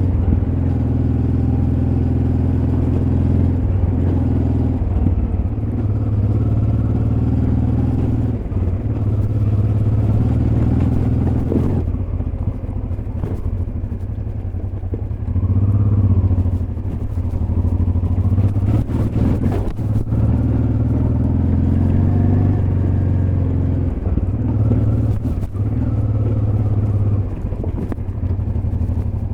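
Honda Transalp XL600V's V-twin engine running at low revs on a dirt road, the throttle opening and easing off so the engine note rises and falls every few seconds. It is heard from a recorder in the rider's backpack. A cluster of sharp knocks comes near the middle.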